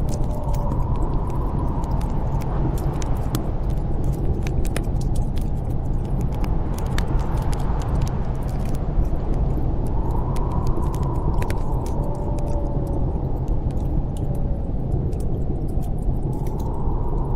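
Snowstorm wind blowing in a steady low rush, with a faint whistle that swells and fades a few times, over the scattered pops and crackles of a wood fire in a fireplace.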